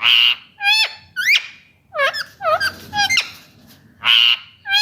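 Indian ringneck parrot calling: a harsh screech at the start and another about four seconds in, with a run of short, sharp calls between them, some sliding up and some sliding down in pitch.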